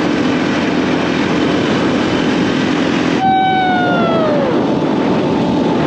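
Motorcycle engine running under way with wind rush. About three seconds in, the engine note changes abruptly and falls steadily in pitch, as when the throttle is rolled off.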